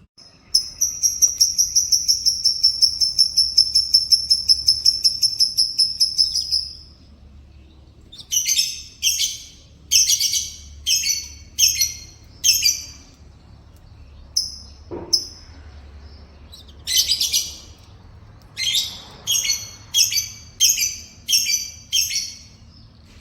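Yellow canary singing: a long, very fast high trill lasting about six seconds, then a string of short chirping phrases with brief pauses between them.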